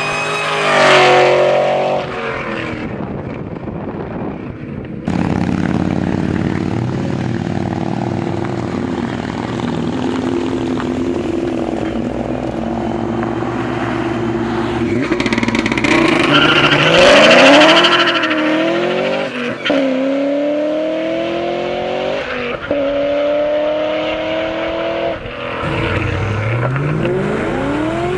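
2003 Mustang SVT Cobra's supercharged 4.6-litre V8, with a Kenne Bell Mammoth twin-screw supercharger, long-tube headers and cat-back exhaust, running loud. It makes a short loud burst at the start and holds steady revs for several seconds. It then revs up hard and accelerates, the pitch climbing and dropping back at three upshifts, and starts another climb near the end.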